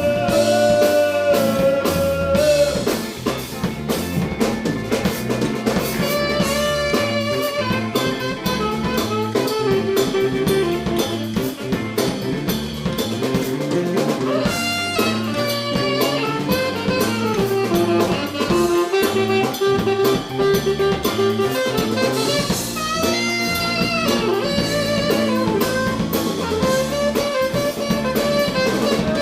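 Live band playing an instrumental passage with electric guitar over a drum kit.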